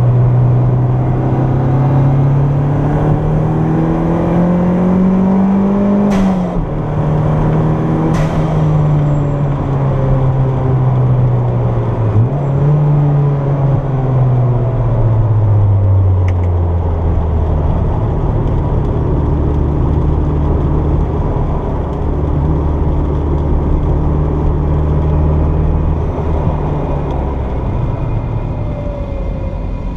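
Turbocharged Toyota MR2 engine heard from inside the car on a track lap. The revs climb for about six seconds, two short sharp sounds come about six and eight seconds in, the note dips and jumps back around twelve seconds in, and then the revs fall away to a lower, steady run.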